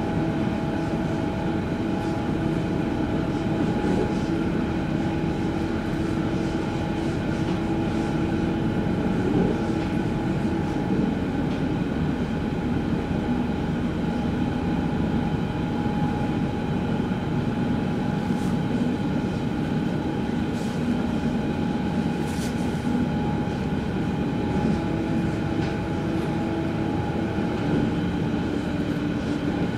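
Berlin S-Bahn electric train heard from inside the carriage while running at steady speed: a continuous rumble of the wheels on the track with a steady, even-pitched whine, and a few faint ticks.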